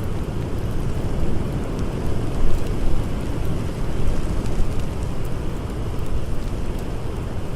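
Blizzard wind blowing as a steady, dense low rumble, with faint fire crackles ticking over it.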